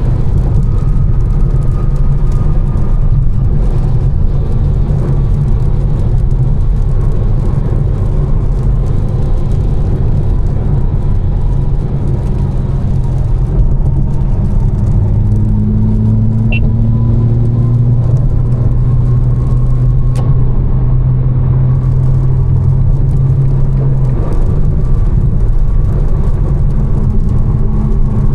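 Tuned 800 hp BMW M4 cruising: a steady low engine drone whose pitch shifts slightly and slowly, under constant tyre and road noise.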